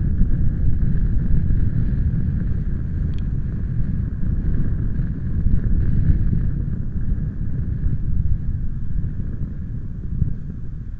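Wind buffeting the microphone: a steady, loud low rumble that rises and falls irregularly.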